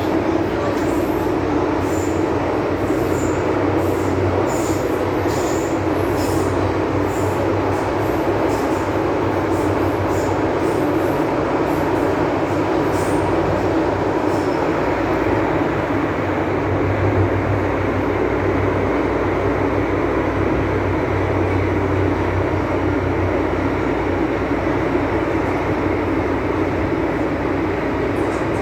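MTR M-Train electric multiple unit running at speed between stations, heard from inside the car: a steady rumble with a low hum. Brief high squeaks come and go through the first half.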